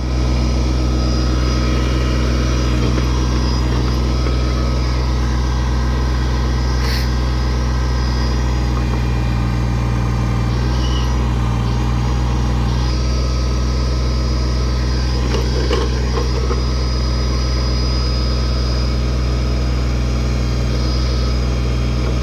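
Kubota backhoe's diesel engine running steadily with a strong low hum while its hydraulic boom and bucket are worked, with a brief sharp click about seven seconds in.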